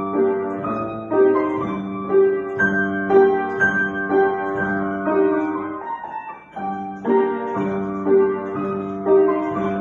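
Solo piano playing a Ukrainian folk-dance piece, a shumka, with steady repeated notes and a short break in the playing about six seconds in.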